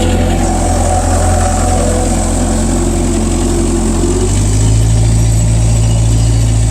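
Bobcat 763 skid steer's diesel engine running steadily; its engine note changes about four seconds in.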